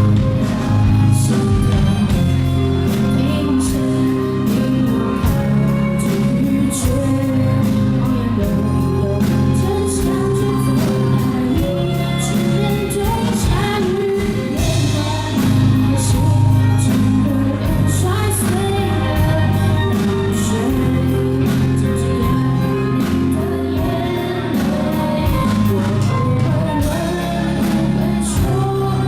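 Live rock band performing a song with a lead singer, over bass, guitar and regular drum hits.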